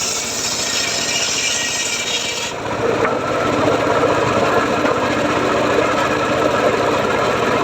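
Homemade circular saw cutting teak wood: a loud, steady rasping hiss while the blade is in the wood, easing about two and a half seconds in to a lower, steady running sound.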